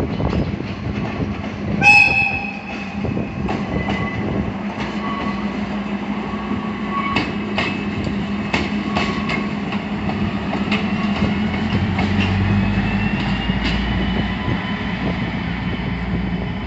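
Train at a station: a short horn blast about two seconds in, then the train running with wheel clicks over the rails and a whine that slowly rises in pitch as it picks up speed.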